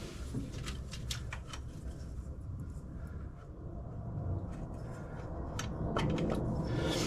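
Scattered light clicks and knocks as the old HEI distributor is worked loose by hand and twisted in its bore on a Chevy small-block V8. A cluster of clicks comes in the first couple of seconds and more near the end, over a steady low rumble.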